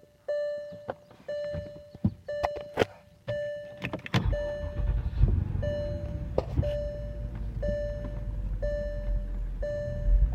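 Porsche Cayenne's 4.5-litre V8 (M48.00) being started: a few clicks, then the engine catches about four seconds in and settles into a steady idle. A dashboard warning chime repeats about once a second throughout.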